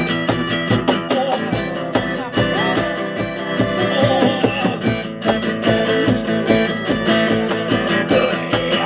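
Rock band playing an instrumental break live: strummed guitars over a steady beat, with a wavering melody line in the middle of the break.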